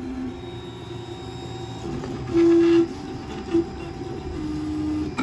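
CTC FDM MK8 3D printer running a print: its stepper motors whine in short steady notes that change pitch with each move, with one much louder held note about two and a half seconds in and a brief one a second later. Under this is the steady hum of its cooling fans.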